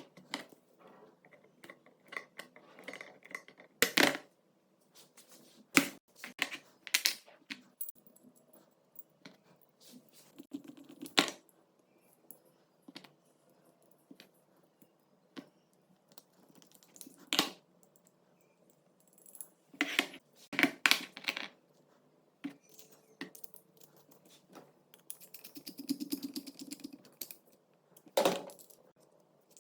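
Irregular clicks, clinks and knocks of small metal parts and tools being handled on a workbench, with about ten sharper knocks spread unevenly through and a short rustle of scraping near the end.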